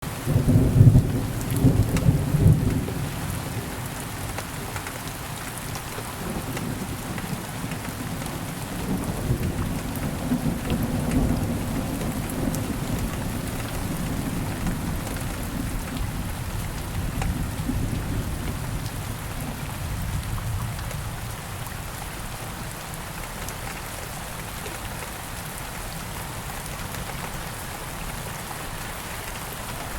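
Steady rain falling, with thunder rumbling loudest in the first few seconds and a weaker roll of thunder about ten seconds in.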